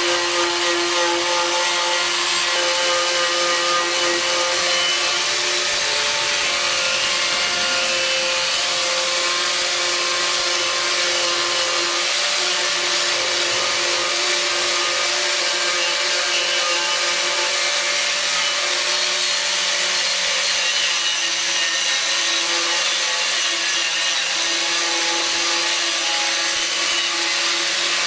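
A power tool running steadily under load: a continuous whining motor tone with a harsh rubbing hiss, its pitch wavering slightly as the load changes.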